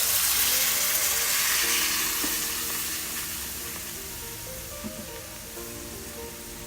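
Coconut milk just poured into a hot pan of sautéed ginger, onion and mashed mango, sizzling loudly at first and slowly dying down.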